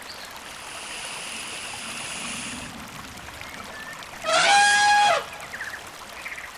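One loud animal call, pitched and about a second long, rising at its start, over a steady rushing noise like running water.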